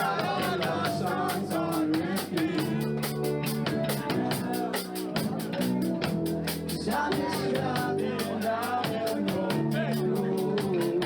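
A live rock band playing a song, with drum kit keeping a steady beat, guitar and bass, and a sung vocal line.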